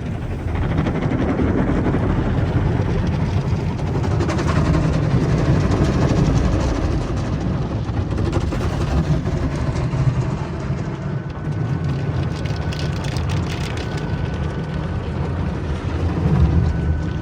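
Automatic car wash working over a car: a steady rush of water spray and machinery noise. A faint high whine comes and goes in the second half.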